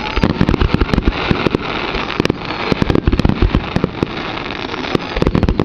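Aerial fireworks shells bursting in a dense barrage: many bangs in quick succession over a continuous rushing noise.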